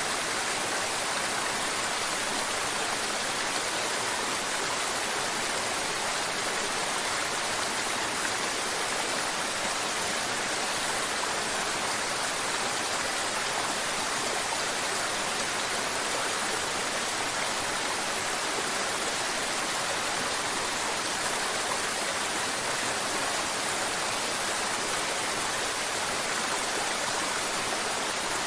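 Mountain river water running and babbling steadily, an even hiss with little deep rumble.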